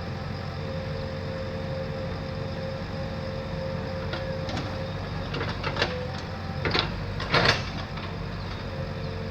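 A motor running steadily, with a cluster of short, sharp scraping or clanking noises about two-thirds of the way through.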